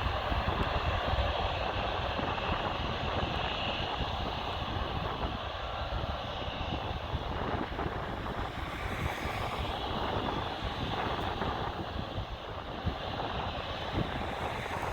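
Jet airliner engines rumbling steadily during a departure, easing slightly in level, with wind buffeting the microphone.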